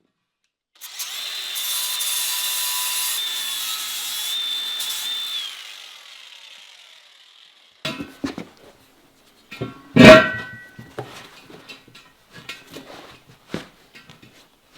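Handheld electric power tool running for about five seconds against the steel rim of a backhoe wheel, grinding off rust spots along its edge, then spinning down. This is followed by scattered clanks and one loud ringing metal clang about ten seconds in.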